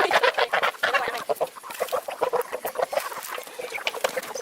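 A flock of chickens clucking, many short overlapping calls, busiest in the first second or so and thinning out after.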